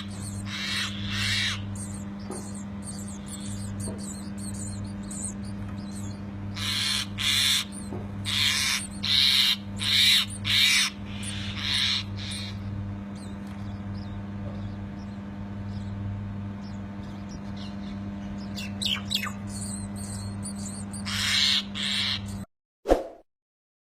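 Nestling birds giving raspy, repeated begging calls in several bunches: the hungry babies calling for food. A steady low hum runs underneath. Near the end the sound cuts off and a single ding rings.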